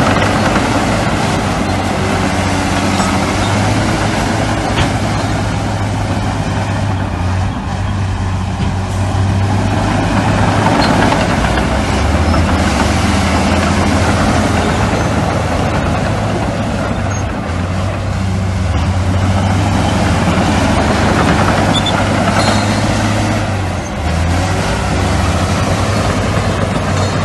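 Diesel engines of heavy earthmoving machinery, such as bulldozers and dump trucks, running steadily: a deep continuous engine drone whose note shifts slightly now and then.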